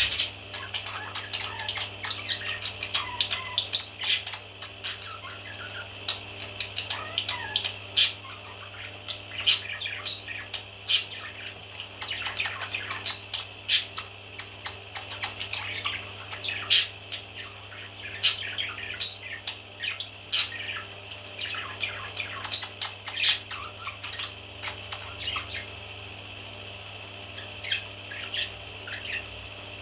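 Baby parrots calling: many short squawks and chirps in quick succession, some rising in pitch, over a steady low hum.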